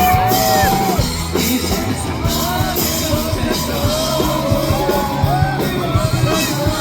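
Rock band playing live with a male lead vocal singing held, bending notes over electric guitars, bass and drums.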